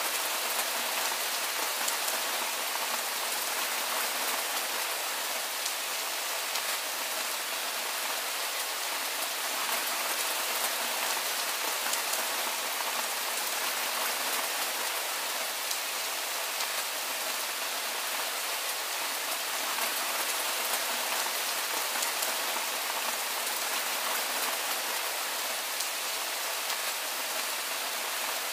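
Steady soft rain falling: an even hiss with a fine patter of drops.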